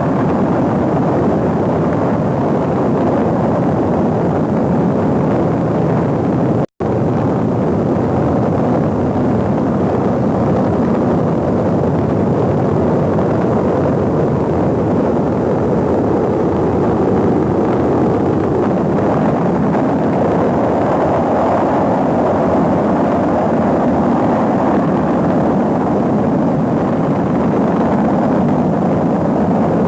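Rocket engine roaring steadily during a launch, cutting out for a split second about seven seconds in.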